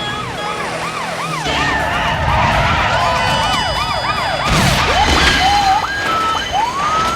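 Police sirens yelping, a fast repeating rise-and-fall in pitch, over the low rumble of car engines. Near the end a slower siren wail sweeps upward.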